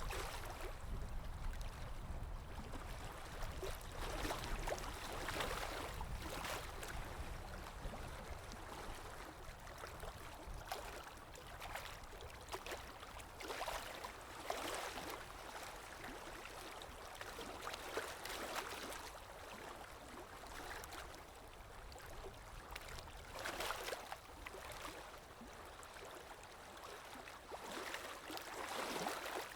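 Underwater ambience: a steady low rumble with muffled gurgling, bubbling water swelling up and fading at irregular moments.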